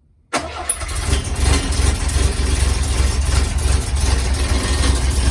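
MGB's four-cylinder engine starting about a third of a second in and then running steadily, at its first start after restoration.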